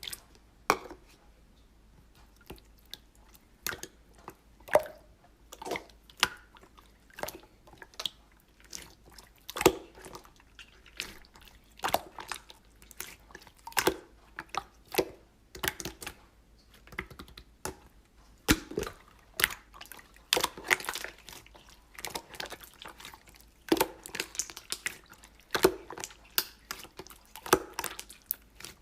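Slime being squished and pressed by hand, making irregular wet pops and clicks, about one or two a second at first and coming thicker in the second half.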